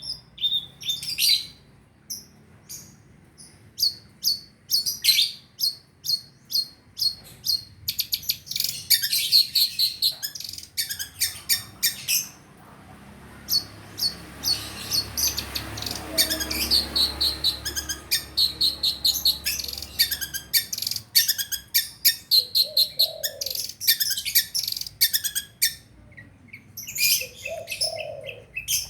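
Long-tailed shrike (pentet) singing: rapid runs of short, sharp chirping and chattering notes in bursts, with brief pauses between them.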